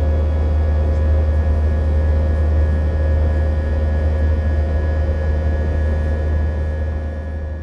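Passenger airliner cabin in flight: the steady drone of the jet engines and airflow, with a strong low hum and a steady higher whine over an even rush of noise. It starts to fade out near the end.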